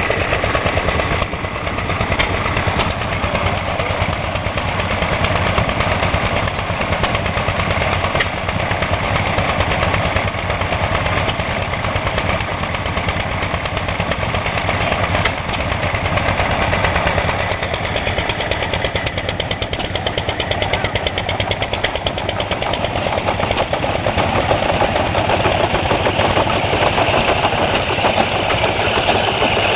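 Antique stationary engines, a John Deere LUC and an IHC LB, running steadily with a fast, even firing beat while driving a burr mill and grain elevator through flat belts.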